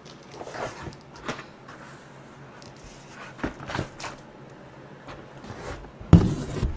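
Handling noises of a gift box being opened by hand: a series of short rustles and knocks at uneven intervals, the loudest about six seconds in.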